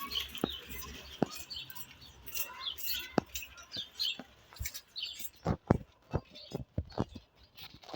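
A series of irregular light clicks and taps, sparse at first and coming thick and fast in the second half.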